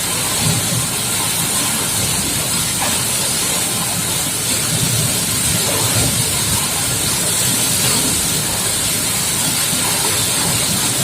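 High-pressure water jet from a booster pump hissing steadily as it sprays down a mining dump truck, with a low rumble underneath.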